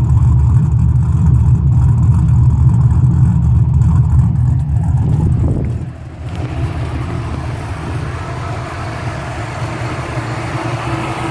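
Swapped V8 engine in a Mazda RX-7 idling steadily after a cold start, with a deep exhaust rumble. About six seconds in the low rumble drops suddenly and a quieter, hissier engine sound takes over.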